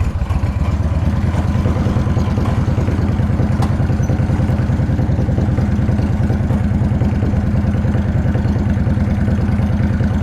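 Yamaha V-Star cruiser's V-twin engine idling steadily just after start-up, with an even, regular beat.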